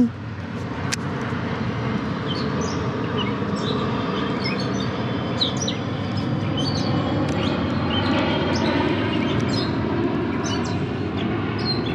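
Small birds chirping repeatedly in short, quick notes over a steady low mechanical rumble that swells slightly toward the end.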